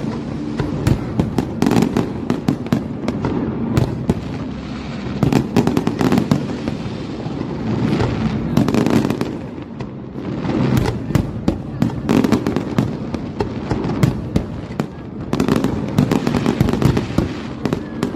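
Fireworks display: shells bursting in dense, rapid succession with sharp bangs and crackle. The bursts come in waves that swell and ease every few seconds.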